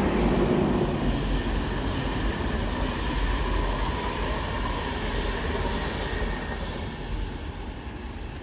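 Passenger train running past on the line, a steady rail rumble that is loudest at the start and slowly fades as the train draws away.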